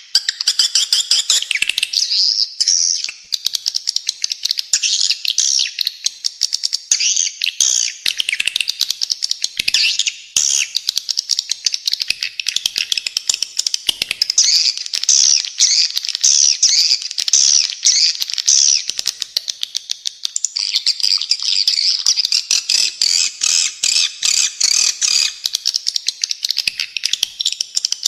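Recorded calls of spiderhunter and swiftlet played together: dense, fast, high chirps and short sweeps, one after another. They run as a thicker, more even twitter from about two-thirds of the way in.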